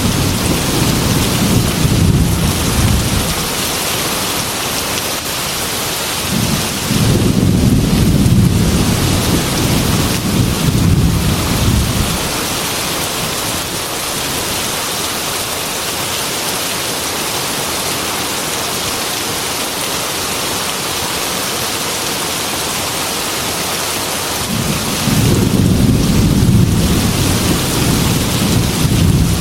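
Heavy rain falling steadily, with low rolls of thunder: one dying away in the first few seconds, another from about seven to twelve seconds in, and a third building near the end.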